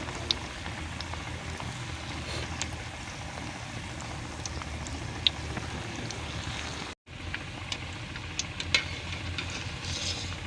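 Chicken balls frying in hot ghee: a steady sizzle with scattered sharp pops and crackles. The sound drops out for an instant about seven seconds in.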